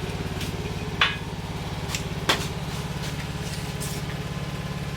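A motor runs with a steady low pulsing hum, and a few sharp metallic clicks and taps sound over it, the loudest about one second and two and a quarter seconds in.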